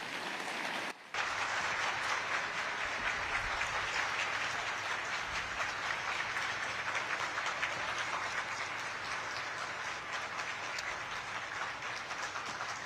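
Audience applauding steadily: a dense, even crackle of many hands clapping at once, cutting out briefly about a second in.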